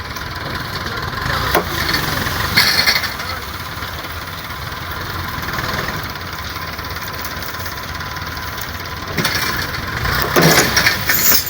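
Tractor engine running steadily, with a few short, louder bursts of noise about two to three seconds in and again near the end.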